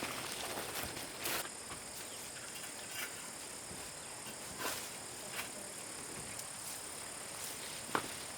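Steady high-pitched insect droning outdoors, with a few short knocks or clicks, about three over several seconds.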